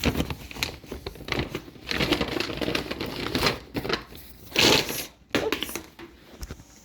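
Plastic grocery bags rustling and crinkling as groceries are unpacked, with short clicks and knocks of items being handled and set down.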